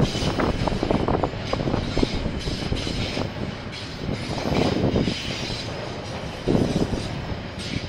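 A KiwiRail freight train's wagons rolling past, with a continuous rumble and irregular clicks and clatter from the wheels on the rails.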